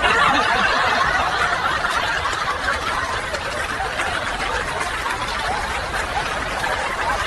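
A crowd laughing together, starting suddenly after a punchline and slowly dying down.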